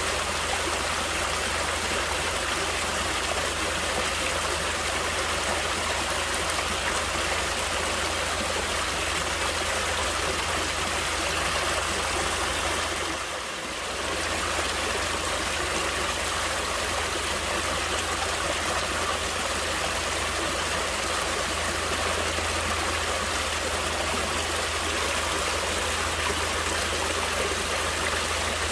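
Stream water flowing steadily, a continuous rushing and trickling that dips briefly about halfway through.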